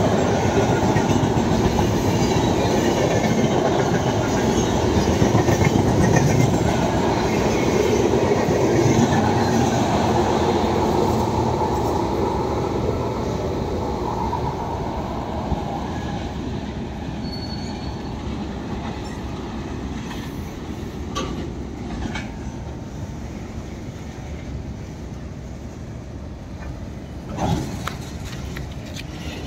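Train wagons rolling past on the track: a steady rumble and wheel clatter, loud for the first dozen seconds and then fading gradually. A brief high wheel squeak comes about 17 seconds in, and a few sharp clanks sound near the end.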